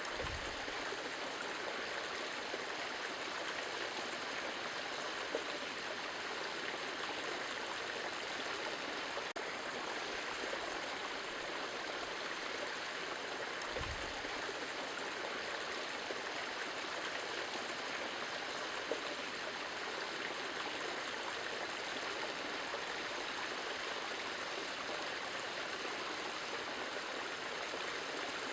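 Steady rushing of running water, like a stream, unchanging throughout, with two faint low bumps, one right at the start and one about halfway through.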